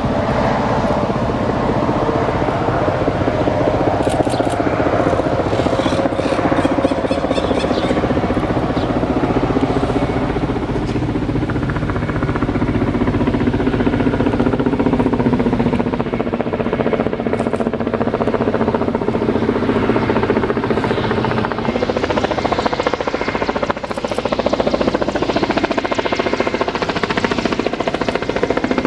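Kamov Ka-32 helicopter running close by: the coaxial rotors beating in a rapid, even pulse over the steady whine of its twin turboshaft engines, loud and unbroken.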